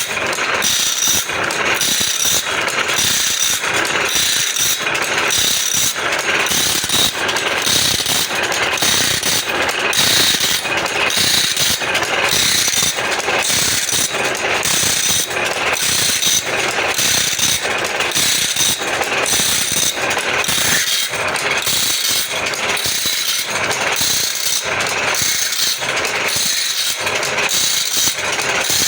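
Automatic band saw blade sharpening machine running, a steady repeating mechanical clatter at about three strokes every two seconds as it indexes the blade tooth by tooth under the grinding wheel.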